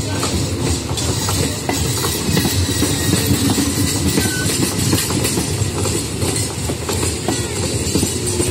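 An electric multiple unit (EMU) local train passing close by, its coaches' wheels rolling over the rails with a steady, loud noise and clickety-clack over the rail joints.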